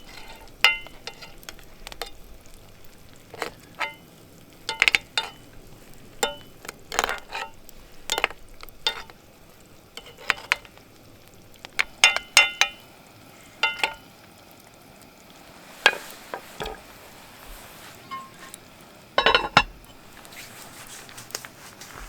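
A metal utensil knocking and scraping in a cooking pan, giving irregular ringing clinks, over a faint steady sizzle of frying food.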